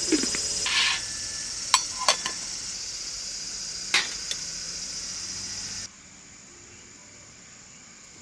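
Crickets chirping steadily, with several sharp clicks and knocks over them. The chirping cuts off abruptly about six seconds in, leaving a quieter low hum.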